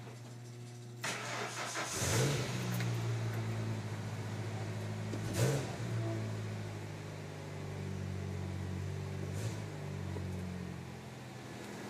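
1992 Ford Ranger pickup started: the starter cranks about a second in, and the engine catches and settles into a steady idle. The engine revs briefly about five seconds in and again near the end. The exhaust pipe has been cut back so that less of it reaches into the tailpipe tip, which the owner hears as a much better exhaust note.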